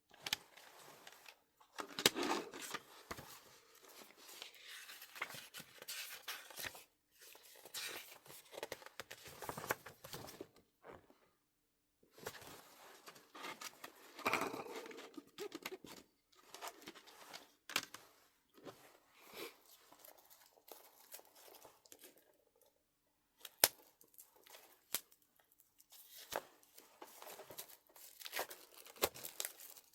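Album packaging being opened by hand: plastic wrap and paper tearing and crinkling in irregular bursts, with a few short pauses.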